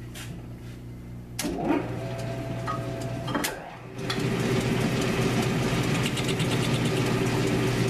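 1942 South Bend metal lathe running with a steady motor hum. About four seconds in the cutting tool starts turning down the scooter wheel, adding a louder, steady hiss over the hum.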